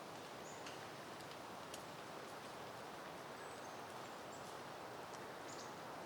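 Soft steady wind rustling through foliage of blooming peony plants, with a few faint, short high chirps scattered through.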